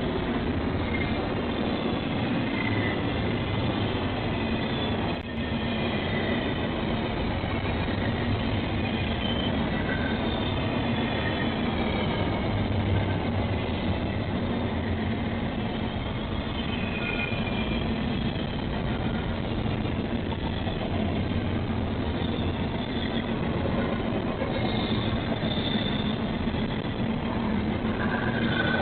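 Freight train cars rolling past with a steady rumble, with short high-pitched wheel squeals now and then.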